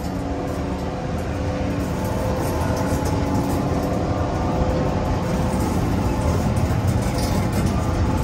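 Railtour passenger coaches rolling past, wheels running on the rails, with a diesel locomotive's steady engine drone growing louder.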